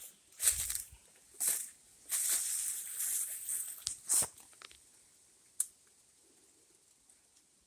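Irregular bursts of rustling and crunching, a longer stretch about two seconds in, then a few short ones and a single sharp tick near the middle.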